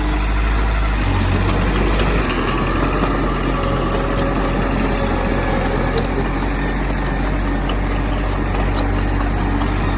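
Heavy diesel engine of earthmoving equipment running steadily, with a slight change in engine note about two seconds in and a few faint high clicks.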